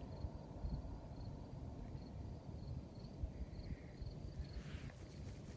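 A cricket chirping steadily, about two short chirps a second, over a low rumble with soft thumps. A brief rustle near the end.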